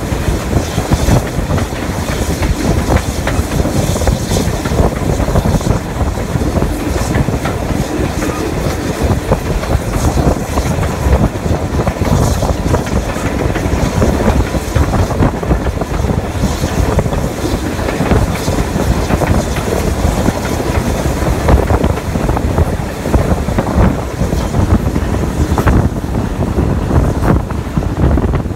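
Steam-hauled train running along the line, heard from an open carriage window: wheels clattering and rattling on the track under a steady rush of wind across the microphone.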